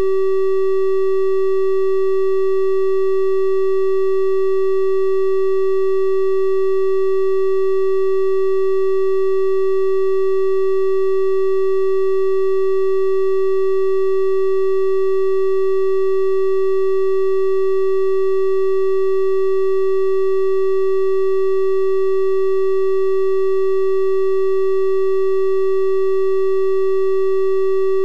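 Synthesized 384 Hz triangle-wave tone, held steady at one pitch and level, with faint higher overtones giving it a slightly brighter edge than a pure sine.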